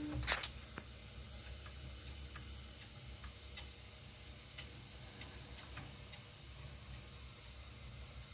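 A sharp click just after a loud grinding noise cuts off, then faint, irregular ticks, one or two a second, over a low hum.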